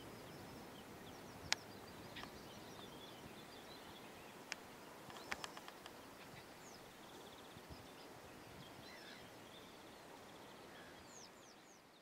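Faint outdoor ambience with scattered short chirps and calls from small songbirds, and a few sharp clicks about one and a half seconds in and around five seconds in. It fades out near the end.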